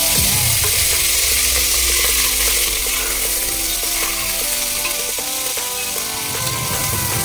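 Cubed squash dropped into hot oil in a steel pot, sizzling loudly and steadily, easing a little after about six seconds, with a spatula stirring it through.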